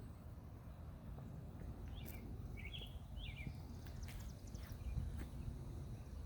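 Birds giving a few short chirps about two to three and a half seconds in, over a steady low outdoor rumble.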